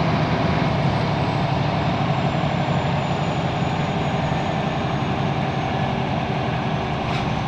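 Scania L94UB Wright Solar bus's engine running steadily.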